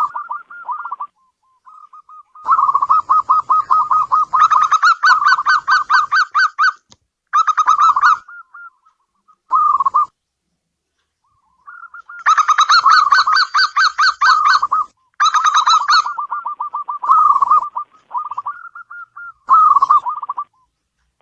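Zebra dove (local perkutut) cooing: bouts of rapid, evenly repeated notes, some running several seconds, broken by short pauses.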